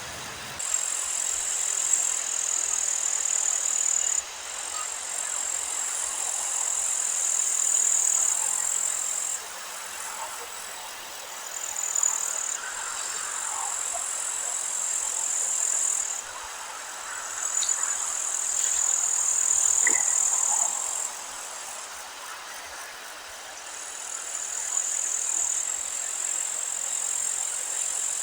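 Meadow insects, bush crickets or grasshoppers, singing a steady high-pitched trill in stretches of several seconds that start and stop abruptly, with a few faint bird chirps behind.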